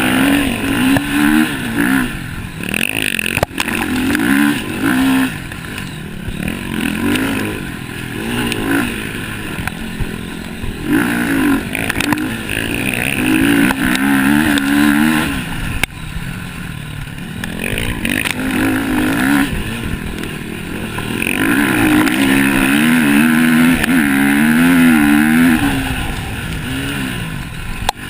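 MX1-class motocross bikes racing, their engines revving up and down as the riders work the throttle. The sound swells several times as bikes come past, loudest in the second half.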